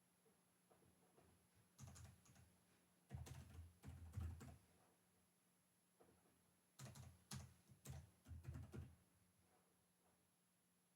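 Quiet typing on a computer keyboard: rapid key clicks in three short bursts, with pauses between them.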